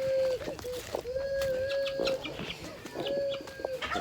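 Chickens calling in the coop: three or four drawn-out, steady notes at one pitch, the longest lasting about a second, with a few light clicks between them.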